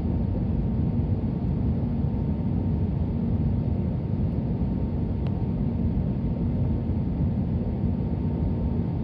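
Steady cabin noise of an Airbus A320neo airliner in flight: the rumble of the engines and airflow, with a faint steady whine.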